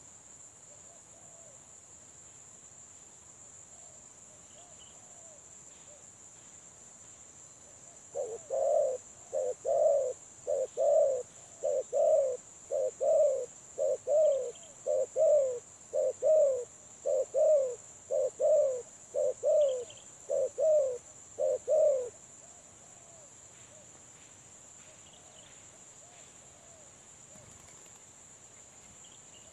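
Spotted dove (tekukur) cooing a fast run of paired notes, about one pair a second, starting about eight seconds in and stopping about fourteen seconds later; fainter coos come from other doves before and after. A steady high insect drone sits underneath.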